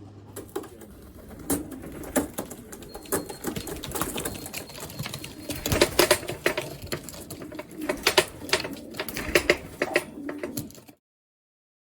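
Racing pigeons' wings flapping and clattering in an irregular run of sharp flutters and knocks. The sound cuts off suddenly near the end.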